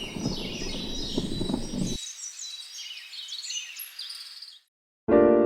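Wild songbirds chirping and singing in several high, quick calls over a low rumbling noise that cuts off abruptly about two seconds in. The birdsong fades out, and a short silence is followed near the end by soft electric piano music.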